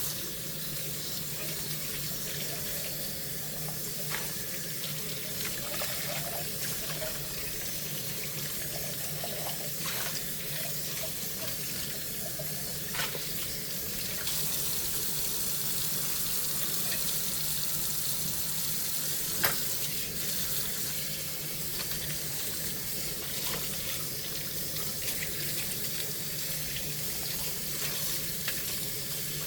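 Kitchen tap running steadily into a sink during hand dishwashing, with a few light clinks of dishes, the sharpest about two-thirds of the way through.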